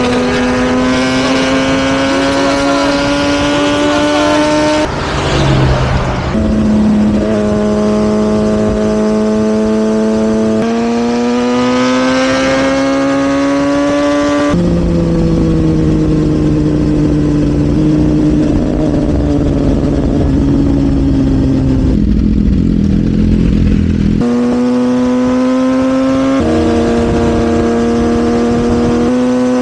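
Sportbike engine running hard at speed: a loud, steady engine note that climbs slowly in pitch and drops sharply at each gear change, several times over, with a longer stretch in the middle where the pitch falls away as the bike slows.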